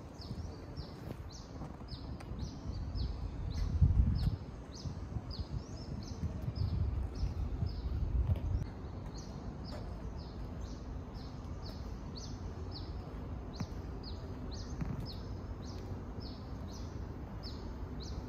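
A bird chirping over and over, short high chirps about two or three a second in an even rhythm, over a low rumble that swells about four seconds in and again around seven to eight seconds.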